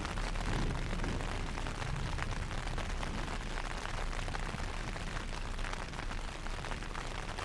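Heavy rain pouring down in a steady hiss of many fine drop impacts, with a low rumble underneath.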